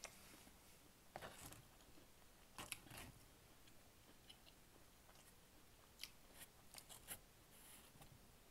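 Near silence broken by faint, scattered short crunches and clicks of chewing thin, crispy pizza crust and handling the food on the cardboard pizza box.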